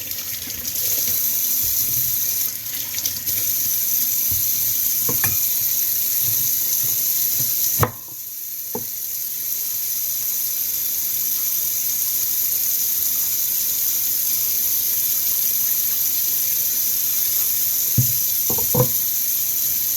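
Kitchen tap running steadily. There is a sharp knock about eight seconds in, where the flow dips briefly and then builds back, and a few light knocks near the end.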